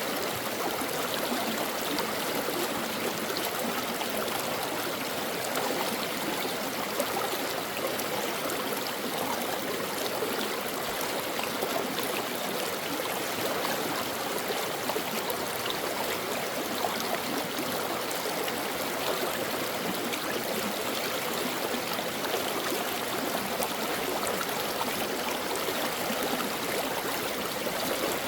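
A shallow stream running steadily over rocks, a continuous babble of flowing water with small splashes and gurgles.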